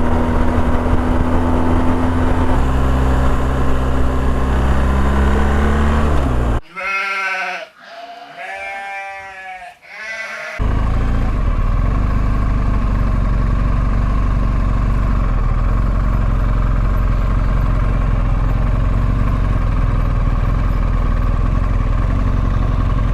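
BMW R1250GS boxer-twin engine running, stepping down in pitch a few seconds in and rising again. About six seconds in the engine sound drops away for about four seconds while sheep bleat twice, then the engine runs steadily again.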